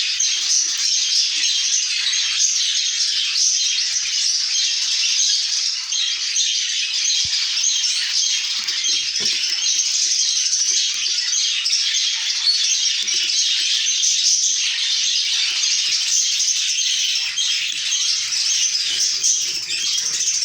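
A flock of budgerigars chattering: a dense, continuous high-pitched twittering.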